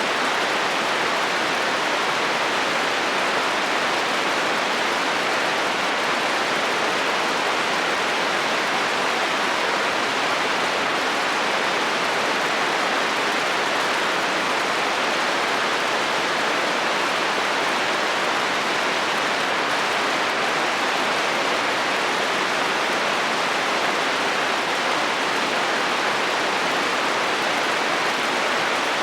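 Steady heavy rain drumming on a metal roof, an even hiss with no let-up and no thunder.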